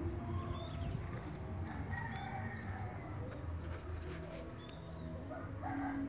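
Birds calling in waterside undergrowth: short low notes repeating, with scattered short high chirps over them.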